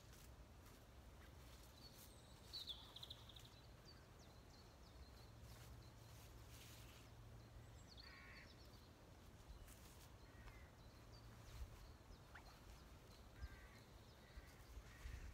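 Near silence: a few faint, scattered woodland bird calls over a low, steady rumble.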